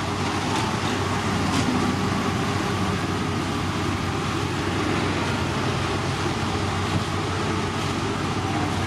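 Heavy road-construction machinery running steadily, a constant engine hum with a broad noisy wash over it.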